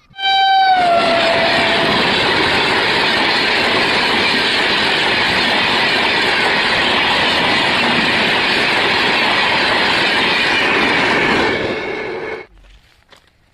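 Train passing close by at speed: a brief horn note at the start that drops slightly in pitch, then about eleven seconds of loud, steady wheel-and-rail noise that cuts off suddenly as the last car goes by.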